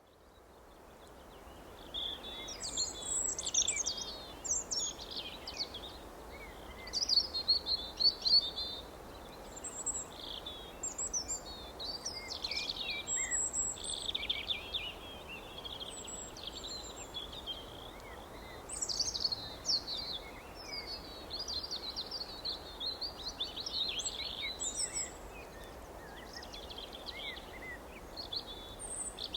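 Small songbirds chirping and singing in short, rapid phrases, one call after another, over a steady background hiss. The sound fades in over the first couple of seconds.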